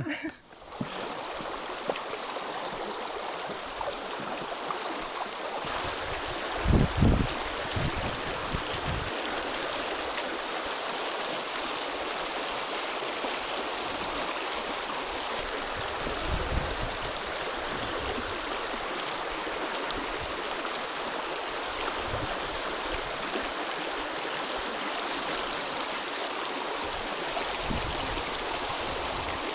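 Stream of water rushing steadily over stones, with a few low thumps, the loudest about seven seconds in.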